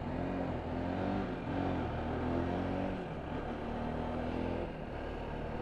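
Motorcycle engine running under way, its revs rising and falling as the bike accelerates and changes gear.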